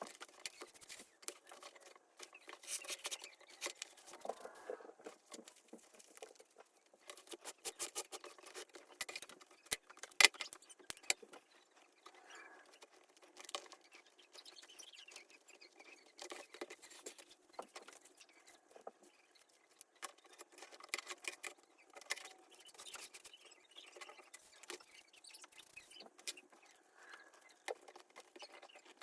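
Sped-up handling sounds of hands working on a small leather baseball glove: a fast, irregular run of clicks, rustles and scratches, with one sharper click about a third of the way through.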